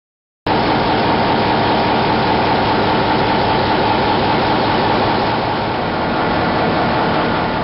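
MaK 8M32 eight-cylinder medium-speed marine diesel main engine running steadily at close range in the engine room: a loud, dense, unchanging machinery noise with a steady high whine through it. It cuts in abruptly about half a second in.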